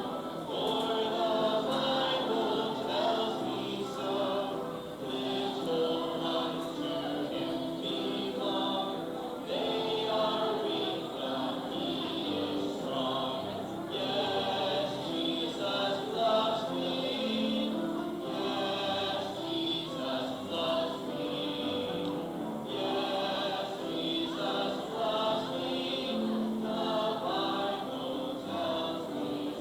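A choir of voices singing a gospel song.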